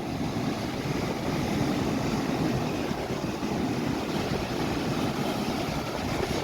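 Strong wind buffeting the microphone: a steady, unbroken noise, heaviest in the low end, with ocean surf beneath it.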